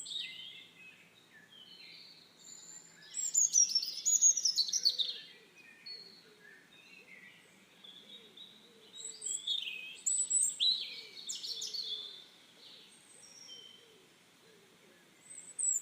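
Several wild birds singing and chirping, with quick trills and twittering phrases; the busiest, loudest stretches come about three seconds in and again around ten seconds in.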